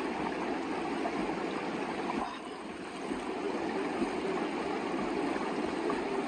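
A river running: a steady wash of water noise that is briefly a little softer about halfway through.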